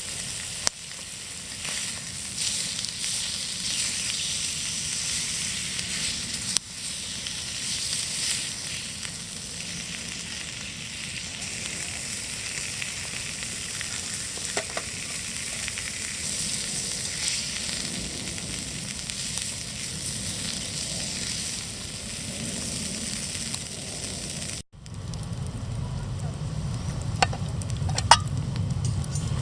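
Meat sizzling on an iron griddle plate, a steady frying hiss with scattered small pops. Near the end it cuts off abruptly, and a lower rumble with a few clicks follows.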